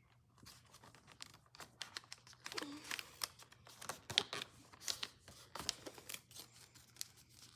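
A sheet of paper being folded and creased by hand: faint, irregular crinkles and rustles as the paper wings of an origami jet are folded up and pressed flat.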